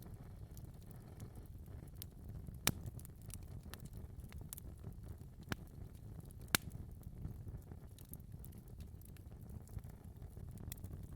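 Wood fire burning in a fireplace: a steady low rumble of flames with sharp, irregular crackles and pops, the loudest about three seconds in and again about six and a half seconds in.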